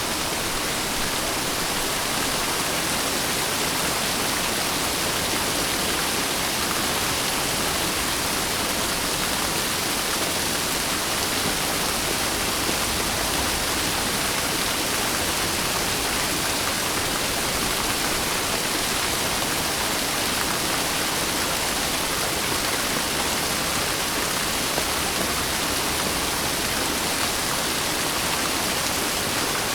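Steady rainfall, a dense even hiss with no break or change.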